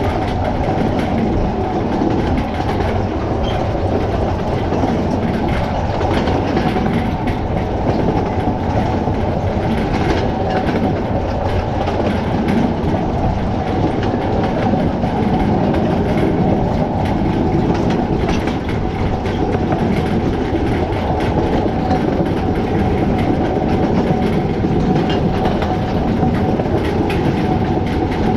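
A 2 ft gauge train heard from aboard an open carriage: a steady rumble and rattle of the wheels on the track, with light clicking over the rail joints. The train is hauled by a 1906 Bagnall 0-4-0 saddle-tank steam locomotive.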